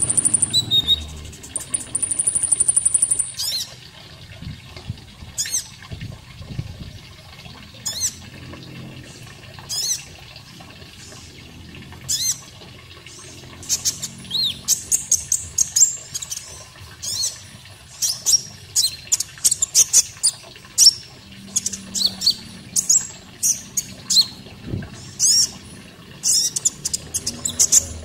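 Konin bird song, played as a tutor recording for training songbirds. A buzzy high trill comes near the start, then sharp chirps falling in pitch about every two seconds, growing thicker and faster from about halfway on, over a faint running-water sound.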